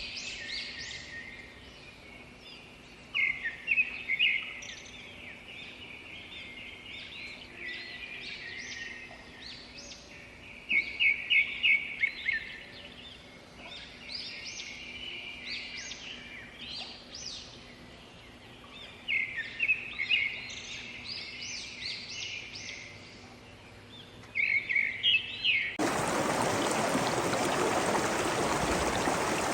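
Wild birds calling, with repeated phrases of rapid high chirps coming every several seconds. About 26 s in, the sound cuts abruptly to a steady rush of flowing water.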